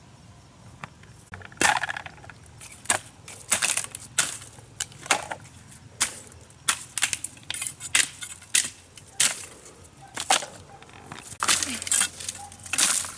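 A series of sharp, irregular cracking and crunching impacts, about one or two a second, starting about a second and a half in.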